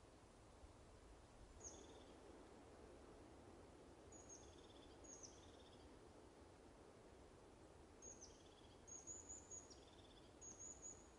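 Faint woodland ambience: small birds give short, high chirps over a low, steady background noise. The chirps come a few times early on and more often in the second half.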